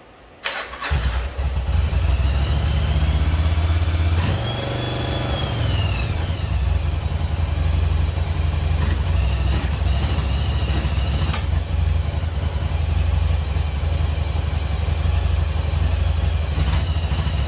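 1996 Yamaha Virago XV750's air-cooled V-twin catching about half a second in and then running steadily at idle. It is starting on freshly cleaned carburettors after about ten years of sitting. A high whine rises and falls over the first few seconds of running.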